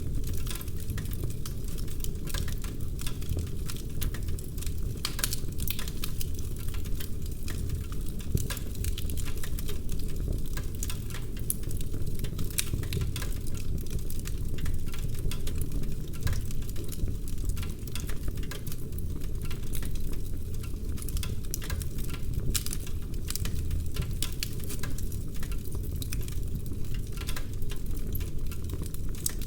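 Fire in a fireplace crackling steadily, with dense, irregular small pops and snaps over a low, steady rumble.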